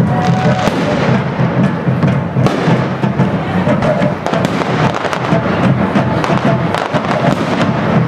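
Fireworks display: a steady stream of crackling and popping bursts, mixed with music.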